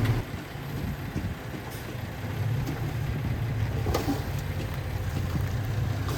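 Diesel engine of heavy earthmoving machinery, a bulldozer or dump truck, running steadily under work, with a short sharp knock about four seconds in.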